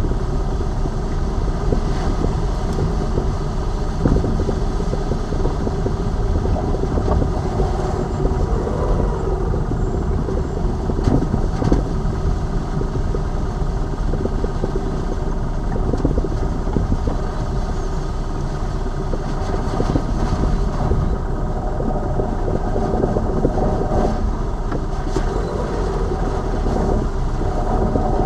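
Lada Vesta Cross being driven, heard from under the bonnet: steady engine and road rumble with a few faint sharp clicks. The suspension knocking is not heard; it is gone since the right shock absorber strut was replaced.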